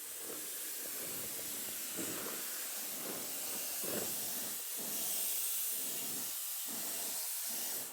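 Compressed-air paint spray gun hissing steadily as it sprays automotive paint, with the gun set at 30 psi.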